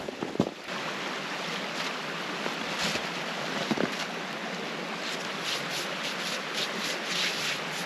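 Rushing creek water running steadily with small splashes. It cuts in suddenly just under a second in, after a few short knocks.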